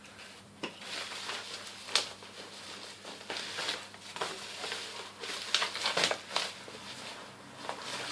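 Handling noise of small items and their packaging: rustling and crinkling with scattered light clicks and taps.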